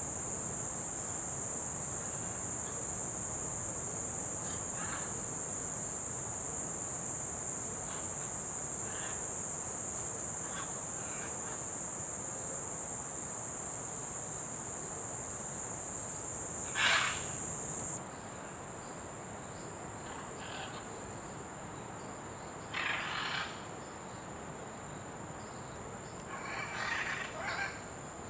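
Steady, high-pitched drone of tropical insects, which drops suddenly to a thinner, quieter whine about two-thirds of the way through. A few short, harsh bird calls cut in over it: one just before the drop, then two more near the end.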